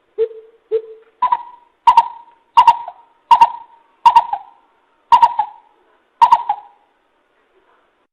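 Greater coucal hooting call, played as a trapping lure: two short low hoots, then a run of seven higher, louder hoots about one every two-thirds of a second, each opening with a sharp click.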